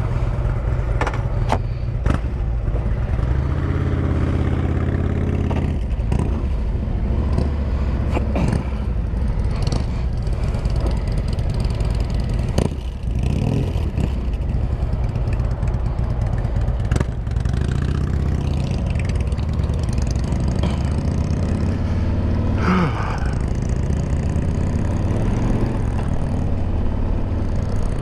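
Harley-Davidson Road Glide's V-twin engine running steadily, its pitch shifting now and then, with a few short clicks.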